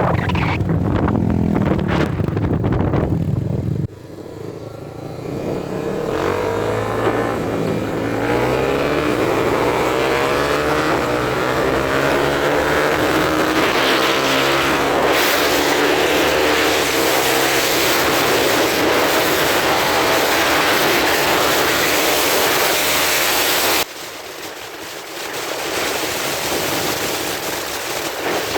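250 cc motorcycles accelerating hard, the engine pitch climbing again and again as they run up through the gears, with heavy wind noise in the middle stretch. The sound changes abruptly twice, about four seconds in and near the end.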